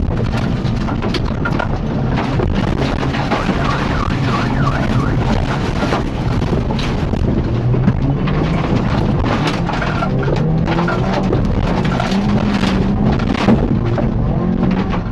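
Mitsubishi Colt's engine heard from inside the cabin, revving up and down under hard driving in a wreck race, its pitch climbing through the middle. Frequent knocks and rattles from the battered bodywork run over it.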